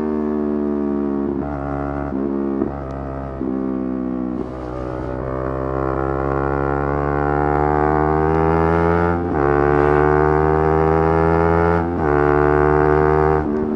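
Yamaha R3's 321 cc parallel-twin engine revving high under hard riding. Its pitch climbs steadily for several seconds, broken by brief dips where the throttle closes or a gear changes.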